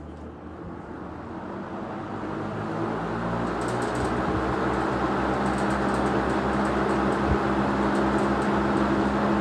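Two vintage Fasco box fans, a model 200 and a model 2001, started together on low speed: motor hum and air rush swell over the first few seconds as the blades come up to speed, then run steady and loud, with a faint high ticking.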